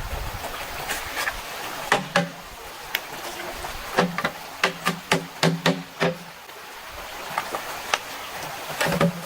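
Sharp knocks of a tool striking bamboo, two a couple of seconds in, then a quick run of about seven strikes in the middle, and one more near the end, over the steady rush of a stream.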